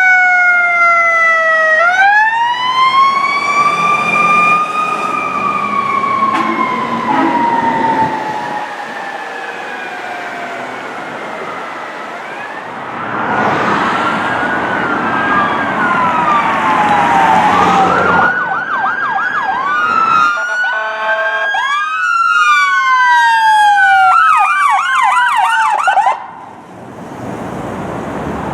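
Electronic sirens of fire apparatus and an ambulance responding: a slow wail rising and falling over several seconds, then switching to a fast yelp with several sirens sweeping over each other. A loud rushing noise of a heavy vehicle going by sits in the middle, and the sirens fall away sharply near the end.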